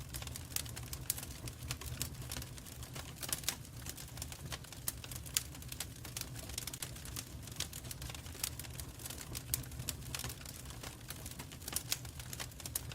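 Fireplace fire crackling: irregular sharp pops and snaps, several a second and some louder than others, over a steady low rumble of the flames.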